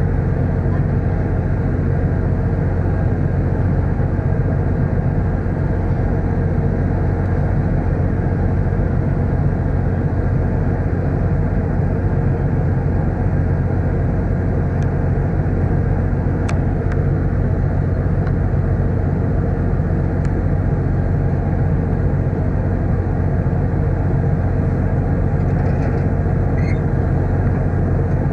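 Car ferry's engines running with a steady low drone, heard from on board, with a few faint clicks.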